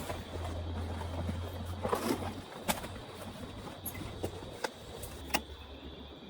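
A few sharp knocks or taps, spaced a second or two apart, over a low rumble that comes and goes.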